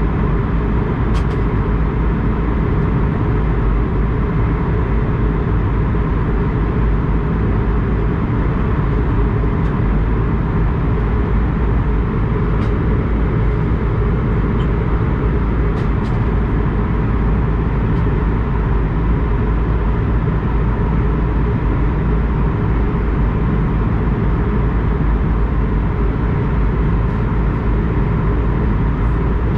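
Steady cabin noise of an Airbus A220-100 jet airliner: a loud, even low rumble of engine and airframe noise that does not change in pitch or level.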